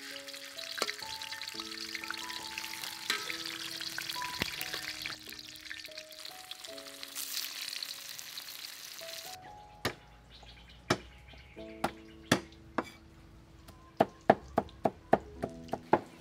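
Tofu cubes frying in hot oil in a wok, a steady sizzle, under background music. About nine seconds in the sizzle stops and a cleaver chops on a wooden cutting board: a few single strokes, then quickening to about three a second.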